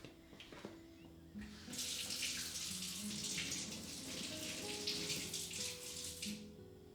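Kitchen tap running into a sink, turned on nearly two seconds in and off shortly before the end.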